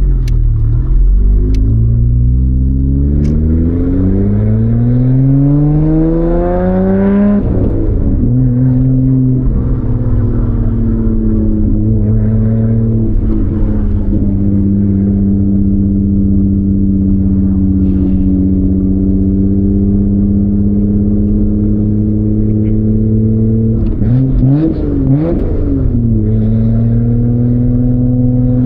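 A performance car's engine pulling away gently under load, its pitch rising steadily for about seven seconds before dropping at an upshift into second gear, then holding a steady engine tone while cruising slowly. About twenty-four seconds in, the pitch wavers briefly before settling again.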